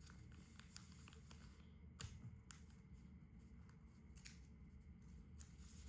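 Faint rustling and a few soft crackles of a sheet of A4 paper being handled and creased while folding a paper airplane, over a low steady hum.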